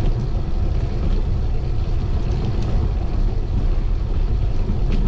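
Wind rumbling and buffeting on an action camera's microphone as it rides along on a moving bicycle, a dense, steady low rumble.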